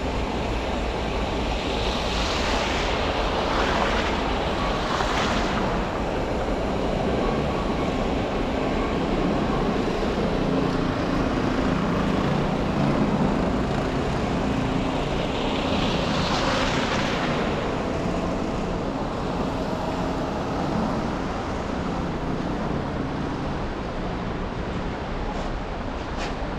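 Steady traffic and road noise from a car driving through city streets: a low engine hum under a constant hiss. Two louder swells of hiss rise and fade, one about two to five seconds in and another about sixteen seconds in.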